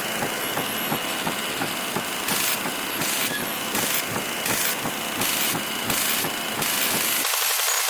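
Television interference from a poor signal: a rough, crackling buzz over hiss, with a brighter hiss cutting in and out several times in the middle and the low buzz dropping away near the end.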